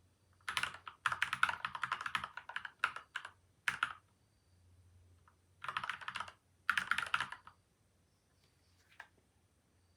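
Typing on a PCL87 mechanical keyboard with lubed linear switches, taped and foam-modded: quick runs of keystrokes in two main bursts with a short pause between, stopping about three-quarters of the way through, with a single faint click near the end.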